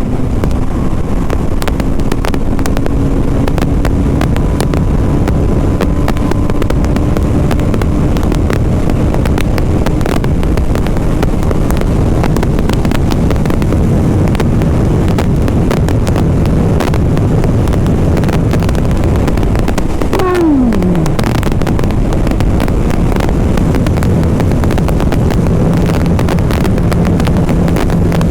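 BMW G 310 RR's single-cylinder engine running under way, steady, with wind rushing over the microphone. About two-thirds of the way through, the engine note drops sharply in pitch within about a second, then holds steady again at a lower note.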